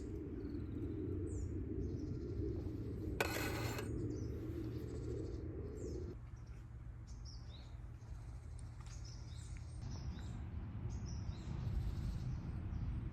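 Small birds chirping repeatedly over a steady low background rumble, with one short noisy burst a little after three seconds in.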